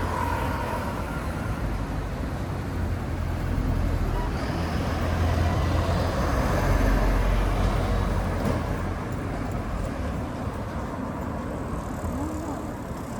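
Road traffic going past, a steady noise with a low rumble that swells about five to eight seconds in and then fades.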